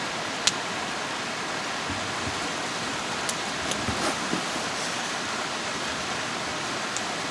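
Valley stream rushing steadily, an even hiss of flowing water, with a sharp click about half a second in and a few light clicks around the middle.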